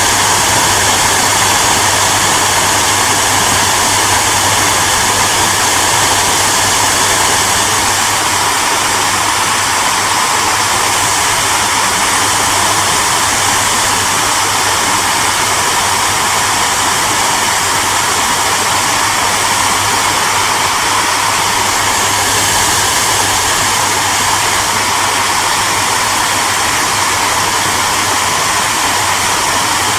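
Hair dryer running steadily, a constant rush of blown air over a low motor hum.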